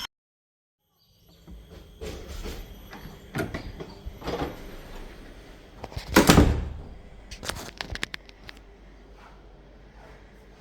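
After a second of silence, a string of irregular knocks and thumps, the loudest and longest about six seconds in.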